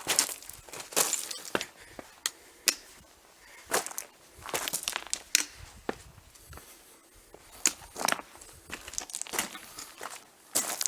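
A hiker's footsteps crunching on stony ground at an uneven pace, with sharp clicks of stone underfoot.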